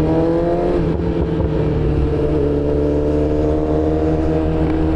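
BMW S1000RR sport bike's inline-four engine pulling under acceleration: the pitch rises, drops with an upshift about a second in, then climbs slowly and steadily in the next gear.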